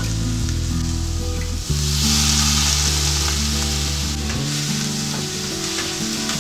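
Roast pork frying in a hot wok. About two seconds in, water poured into the wok sets off a loud sizzling hiss that slowly dies down, followed by a spatula stirring the meat. Background music with held low notes plays underneath.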